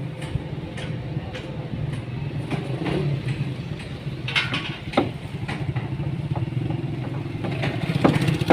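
An engine running at a steady idle with a low, pulsing hum, with scattered sharp knocks and clicks over it.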